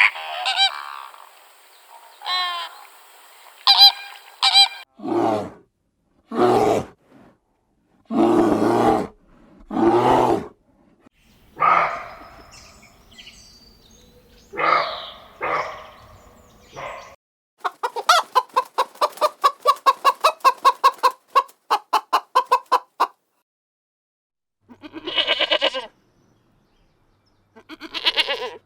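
Farmyard poultry calling: geese honking and chickens clucking in a string of separate calls, with a run of rapid repeated calls a little past the middle lasting about five seconds.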